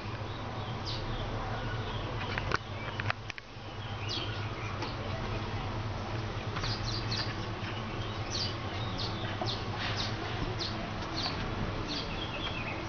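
Small birds chirping in quick, short, high chirps that start about halfway in and keep on, over a steady low hum. A couple of sharp clicks come in the first few seconds.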